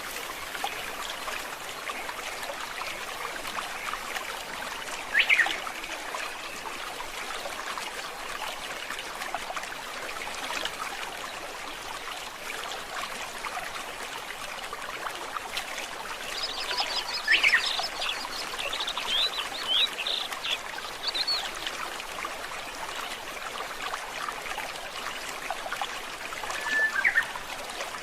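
A forest stream trickling and babbling steadily, with birds calling over it: a short call about five seconds in, a run of quick chirps and whistles in the middle, and another short call near the end.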